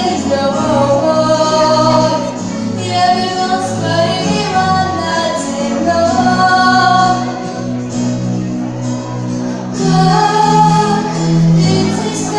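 A female voice singing a melody with long held notes over an instrumental accompaniment with a bass line.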